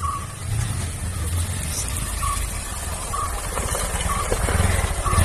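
Motorcycle engine sound: a low, steady rumble that grows louder towards the end, with faint short blips about once a second.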